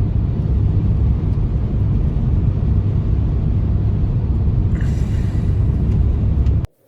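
Strong wind rumbling and buffeting against the microphone in a steady low roar, cutting off suddenly near the end.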